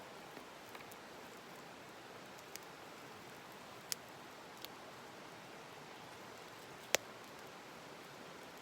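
Wood fire burning: a steady hiss with a handful of sharp crackling pops, the loudest about seven seconds in.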